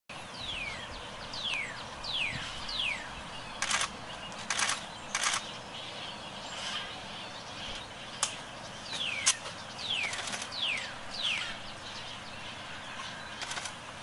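Songbird calling: a run of four clear whistled notes, each falling in pitch, given twice, with a few short harsh bursts in between, over a steady outdoor hiss.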